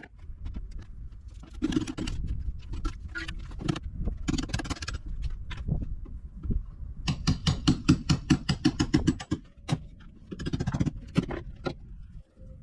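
Hand tools knocking and scraping on an old boat while it is being stripped apart. Irregular knocks throughout, with a quick run of about a dozen strikes, roughly five a second, about seven seconds in.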